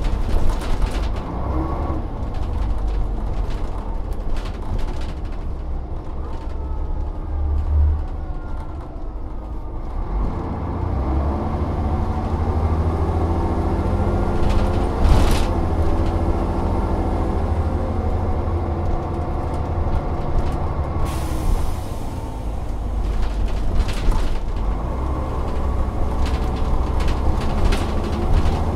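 Volvo Olympian double-decker bus engine running under way, with rattles and knocks. The engine pulls harder from about a third of the way in, there is a sharp clunk about halfway, and a hiss comes in about two-thirds through.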